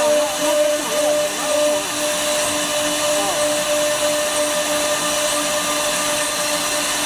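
Woodworking CNC router's spindle running steadily, a constant whine over an even hiss as it cuts wood.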